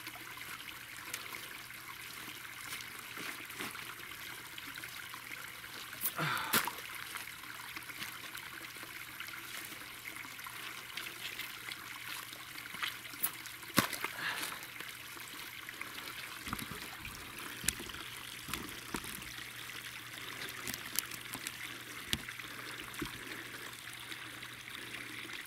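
Water trickling steadily, with scattered sharp knocks and scrapes of a shovel working wet clay.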